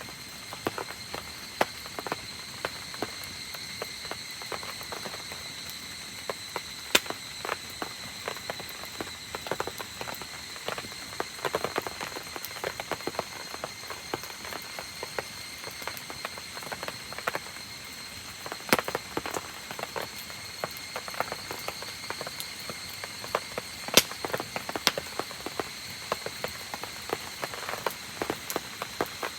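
Rain falling on a wood campfire: a steady patter with frequent sharp pops and ticks scattered through it. A steady high-pitched tone, from an unseen source, holds in the background.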